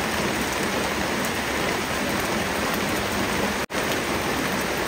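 Heavy rain pouring steadily, large drops drumming down. The sound cuts out for a split second about three and a half seconds in, then carries on.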